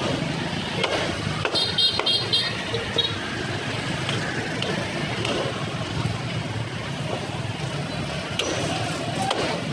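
Busy street ambience: passing road traffic and people talking, with scattered clicks and clatter and a few short high beeps about two seconds in.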